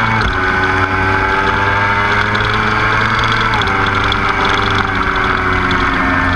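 Motorcycle engine running hard at track speed. Its pitch creeps up slowly and drops sharply twice, about a quarter second in and about three and a half seconds in.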